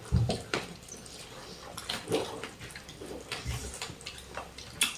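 Close-up eating sounds of a mukbang: chewing with scattered wet clicks and lip smacks, and two low thumps, one at the start and one about three and a half seconds in.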